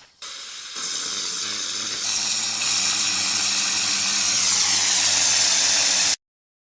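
Loud steady hissing noise that grows louder in a few steps and cuts off suddenly about six seconds in.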